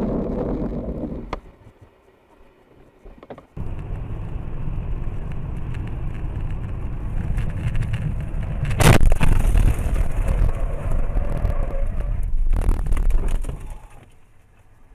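Steady road and engine rumble of a moving car, as picked up by a dashcam, broken by a sudden loud crash about nine seconds in, with more rattling noise a few seconds later. The sound cuts out briefly near the start and fades near the end.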